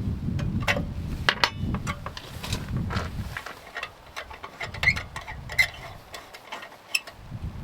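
Scattered sharp metallic clinks and taps from handling an iron lantern stove, one with a brief ring, over a low wind rumble on the microphone that drops away for a few seconds midway.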